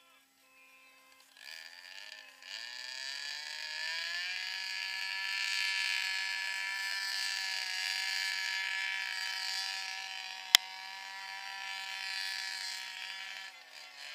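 Rally car engine revving hard, heard at a distance. The pitch climbs over the first few seconds, holds high and buzzing, then fades away near the end. A single sharp bang cuts through about ten and a half seconds in.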